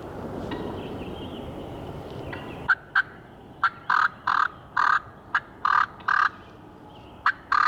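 Turkey calling: after a stretch of steady noise, a run of about a dozen short, sharp notes begins about three seconds in and goes on at an uneven pace.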